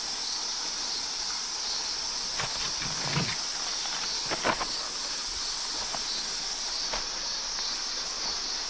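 Outdoor bush ambience: a steady high-pitched hiss, with a few crunching steps on dry ground around the middle.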